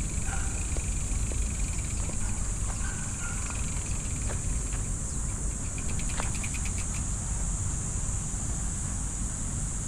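Steady high-pitched drone of insects, over a low rumble, with a few faint clicks and short chirps.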